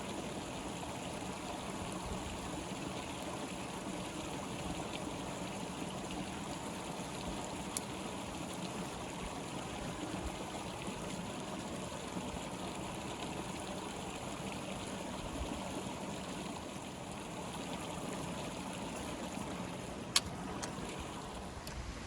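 Steady flow of a stream or river. A single sharp click stands out near the end.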